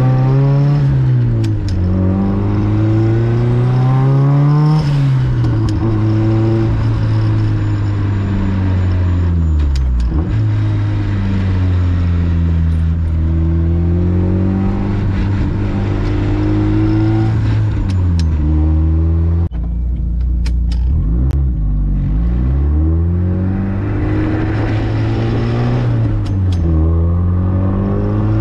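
Nissan SR20 four-cylinder engine in a 1983 Toyota Corolla wagon, heard from inside the cabin while driving. The engine note climbs and drops back several times as the car accelerates and changes gear through its sequential-shifted six-speed, with a few sharp clicks along the way.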